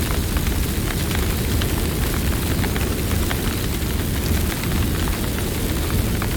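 Campfire burning steadily: a low rumble of flames with many small, quick crackles and pops from the burning wood.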